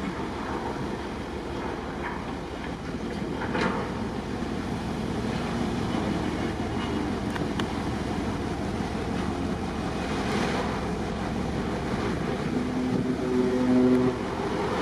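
Steady rumble of a boat underway, with wind on the microphone. A few held tones come in near the end.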